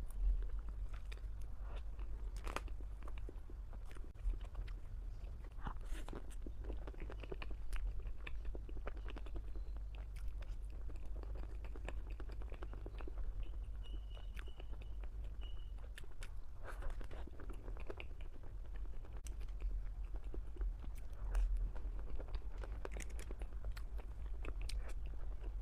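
Close-up chewing and crunching of a chocolate mousse tart with a crisp, nut-studded chocolate shell, with scattered sharp crunches, over a low steady hum.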